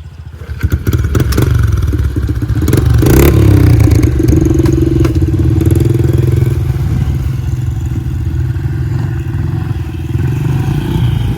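Dirt bike engine pulling away about half a second in and then running steadily under throttle, with clattering knocks over the first few seconds.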